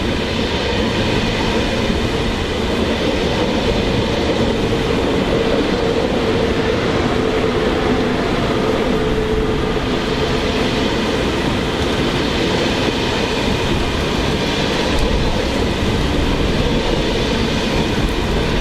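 A train moving through a station at steady speed: continuous rail running noise with a steady hum throughout.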